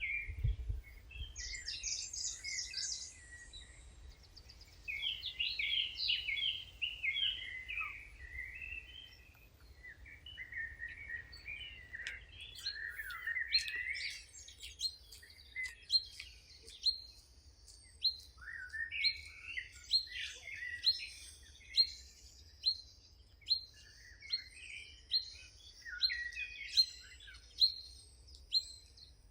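Several songbirds singing and calling over one another in a busy chorus of chirps and warbles. From about halfway through, one bird repeats a sharp high call roughly once a second.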